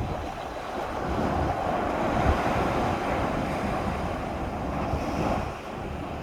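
Ocean surf washing steadily with wind buffeting the microphone in low rumbling gusts, easing slightly near the end.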